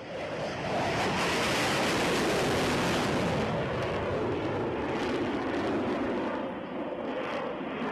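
Jet aircraft engine roar: a steady, loud rushing noise that swells up over the first second and holds, easing slightly in the last second or two.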